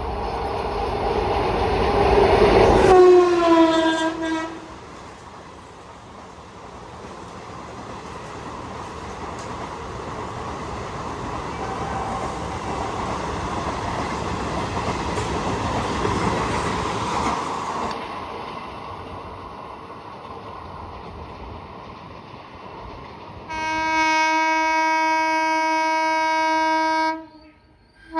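Passing train sounding its horn, the horn's pitch dropping as it goes by about three seconds in. Then a train rumbles along the rails, swelling and fading. Near the end comes a long steady horn blast that cuts off suddenly, followed by a short toot.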